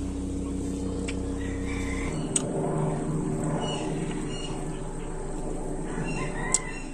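Short bird calls over outdoor background noise, with a steady low hum that cuts off about two seconds in. Two sharp clicks stand out, the louder one near the end.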